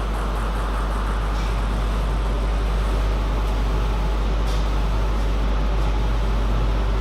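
Steady background noise of a table tennis hall between rallies, a constant hiss with a deep low hum and a few faint knocks, and no rally being played.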